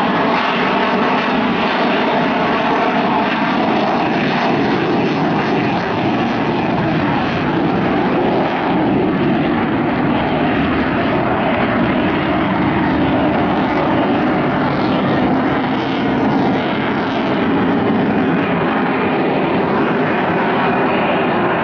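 Eurofighter Typhoon's two EJ200 turbofan engines, a loud, steady jet noise with slight swells as the fighter flies its display.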